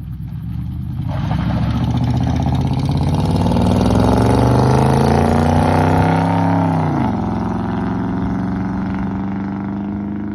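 2001 Ford F-150's 5.4L Triton V8 through its dual exhaust, with all four factory catalytic converters still fitted, accelerating. The engine note climbs steadily for about five seconds, drops sharply about seven seconds in, as on an upshift, then starts climbing slowly again.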